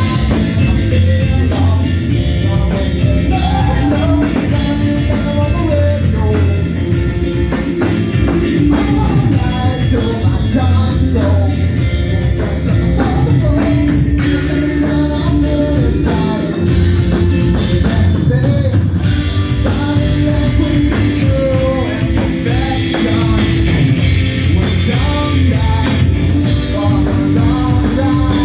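Live rock band playing with drums, guitar and singing, loud and continuous.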